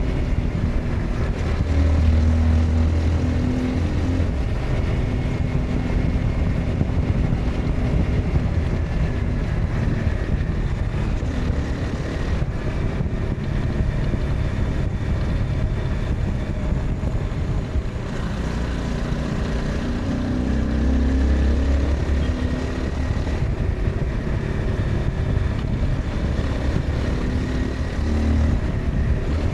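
Honda CBR 250R's single-cylinder engine running on the move, its pitch stepping up and down with throttle and gear changes, over a steady rush of wind.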